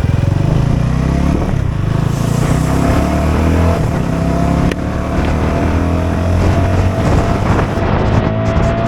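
CFMOTO 250SR's single-cylinder engine running under way, its pitch climbing steadily as the bike accelerates, with a short break about halfway through.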